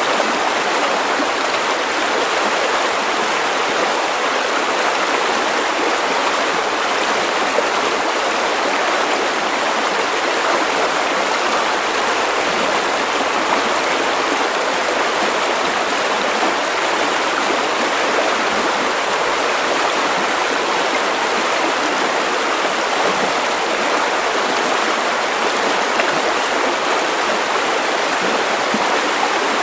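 River water rushing and splashing steadily over stones.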